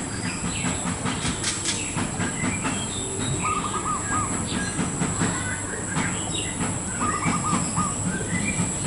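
Zebra dove cooing in short runs of repeated notes, about 3.5 and 7 seconds in, with other small birds chirping, over a continuous low rattling rumble.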